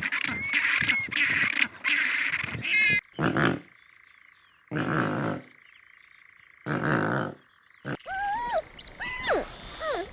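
A big cat roaring and growling: a dense run of rough calls, then three separate roars spaced a second or two apart. Near the end a different animal takes over with a quick series of short calls, each rising and falling in pitch.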